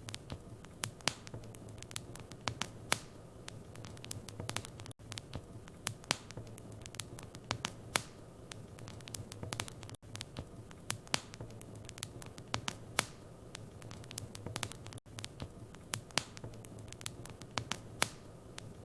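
Wood fire in a fireplace crackling, with irregular sharp pops over a steady low rumble. The sound briefly drops out about every five seconds.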